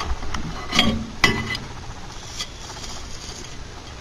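Hard objects clinking and knocking, with two sharp clinks a little after a second in that ring briefly, then a faint hiss.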